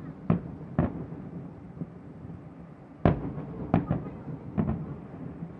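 Aerial fireworks shells bursting: a string of sharp bangs with short rumbling tails. There are two in the first second, then a gap, then a quicker cluster of five or six from about three seconds in, led by the loudest bang of all.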